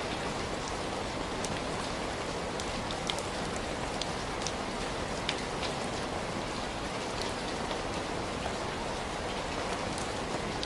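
Steady rain falling, an even hiss with scattered small sharp ticks over it.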